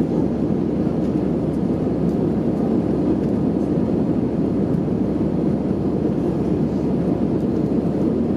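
Airbus A320 cabin noise in flight: a steady, even rush of engine and airflow noise, deep and unchanging.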